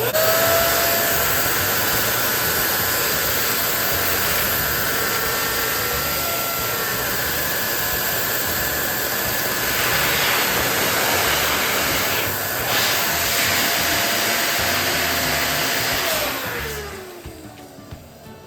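Electric balloon inflator pump running steadily with a faint whine as it blows up a balloon, then switching off about sixteen seconds in, its motor whine falling as it spins down.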